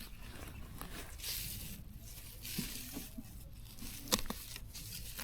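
Intermittent rustling and tearing noises, with a sharp click about four seconds in.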